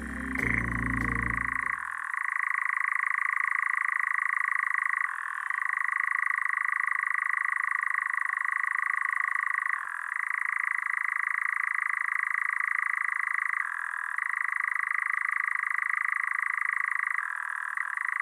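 Eurasian nightjar churring: a long, continuous, steady trill with a mechanical sound, broken by brief dips or shifts about every four seconds.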